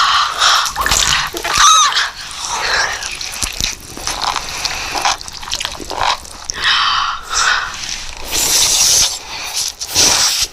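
Close-up, wet eating sounds: irregular chewing, squelching and slurping bursts, with a brief high squeak about two seconds in.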